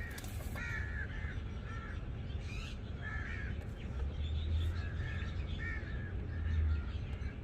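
Crows cawing, a string of short harsh calls, over a low steady hum.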